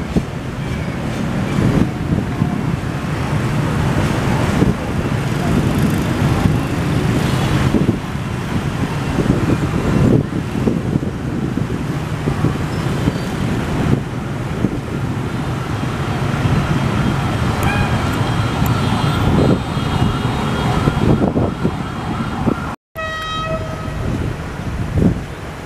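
A train rolling slowly over the station's crossover points, with its wheels rumbling and knocking on the rails. After a brief cut near the end, a horn sounds one steady note for about two seconds.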